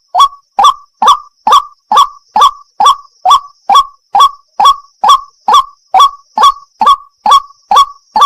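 White-breasted waterhen (wak-wak) calling: short 'wak' notes repeated at a very even pace of a little over two a second, with a faint steady high-pitched tone behind them.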